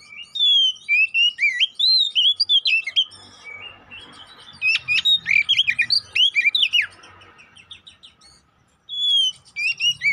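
Oriental magpie-robin (kacer) in loud, aggressive fighting song: rapid runs of varied sweeping whistles and chattering notes, in three phrases broken by short pauses.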